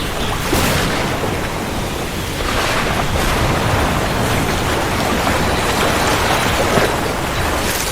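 Steady heavy rain with low rumbling thunder beneath it, swelling slightly in loudness a couple of times.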